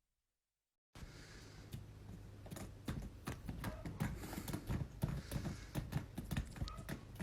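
Rapid, irregular tapping and knocking, many quick clicks close together, starting about a second in and growing busier.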